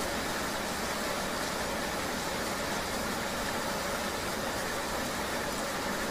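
Steady ambience of riding a motorbike in the rain: an even hiss of rain and road noise over a running vehicle, unchanging throughout.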